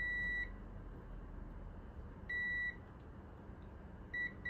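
Digital multimeter's continuity beeper giving a steady high-pitched beep in separate bursts: one ending about half a second in, another of about half a second a little past the middle, and a short chirp near the end. Each beep signals that the two probed points on the motor connector's circuit board are electrically connected.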